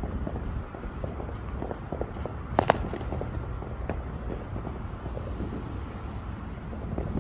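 Distant fireworks popping and crackling over a steady low background rumble, with one louder bang about two and a half seconds in.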